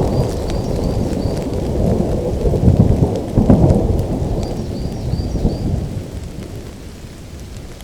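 Rolling thunder rumbling over steady rain, swelling about three seconds in and then dying away over the last few seconds. Two short runs of high chirps come through, one near the start and one about five seconds in.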